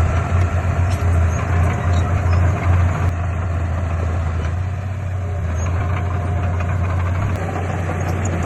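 Heavy diesel engine of earthmoving equipment running with a deep, steady rumble, uneven at first and smoother and slightly quieter from about three seconds in.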